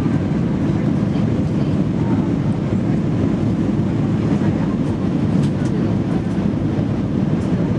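Steady low rumble of a passenger jet heard from inside the cabin, the noise of the engines and the air rushing past the fuselage, with a few faint ticks.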